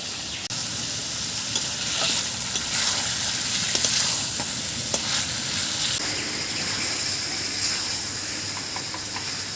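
Spiced chicken frying and sizzling in a pan as it is stirred, with a few sharp clicks from the stirring. It is cooking dry over a strong fire before any water goes in.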